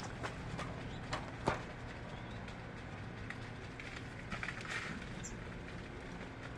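Birds moving about: a few sharp taps in the first two seconds, short rustling bursts about four to five seconds in and a brief high chirp, over a steady low hum.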